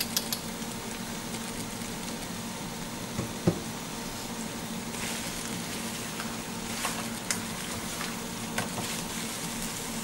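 Thick crab masala frying in oil in a stainless steel pan, sizzling steadily as it is stirred with a wooden spatula, with a few sharp taps and scrapes of the spatula on the pan and one louder knock about three and a half seconds in. It is the dry sizzle of the roasting stage, cooked with no water added.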